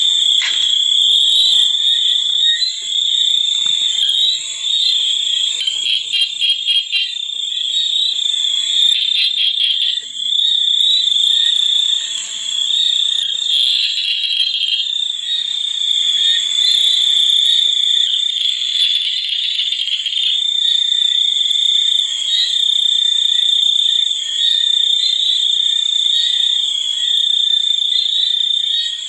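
A chorus of insects trilling with a continuous high-pitched drone, broken by short bursts of rapid pulsing a few times.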